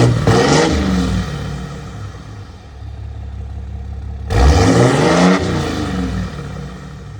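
2014 Ram 2500's 6.7 L Cummins inline-six turbo-diesel, heard through a 5-inch exhaust, being revved twice. A rev falls back to idle at the start, then about four seconds in the throttle is blipped sharply and the revs climb and drop back to idle.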